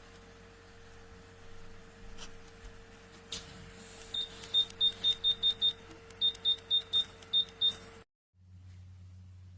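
Electric fireplace control beeping, about a dozen short high beeps at the same pitch in two quick runs, as its buttons or remote are pressed to change settings, over a faint steady electrical hum.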